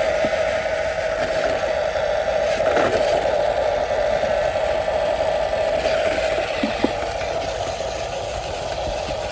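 Huina 1573 radio-controlled dump truck's electric drive motor and gearbox whining steadily as it drives, with a few light clicks and rattles about two-thirds of the way through.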